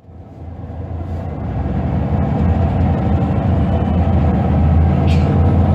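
Scania DC9 nine-litre five-cylinder diesel engine of a 2005 Scania Vest Center L94UB bus running with a steady low hum, fading up over the first two seconds. A short click about five seconds in.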